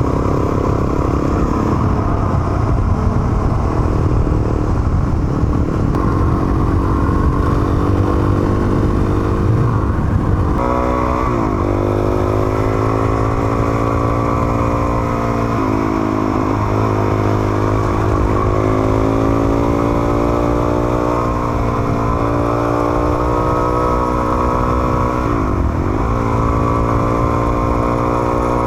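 Motorcycle engine under way, over a constant rumble of wind and road noise. About ten seconds in, the engine note comes through clearly, climbing with the revs and falling back sharply at each of several gear changes.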